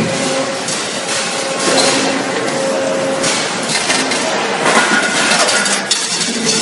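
Factory floor noise on a water heater production line: machinery running steadily with repeated metal knocks and clinks.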